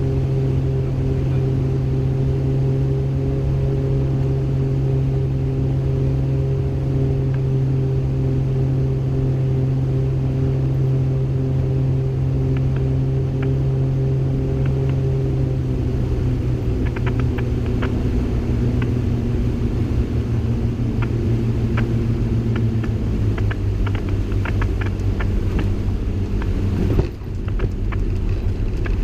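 Twin piston engines of a Beechcraft G58 Baron heard from the cockpit, running with a steady even drone, then the note drops and turns rough about halfway through as power comes back. Scattered rattles and knocks follow, with a sharp jolt near the end.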